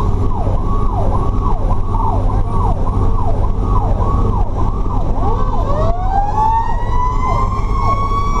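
Fire truck's electronic siren yelping in rapid falling sweeps, about two a second, over the truck's steady low engine drone. About five and a half seconds in, a mechanical Federal Q siren winds up with a rising howl and holds a high scream.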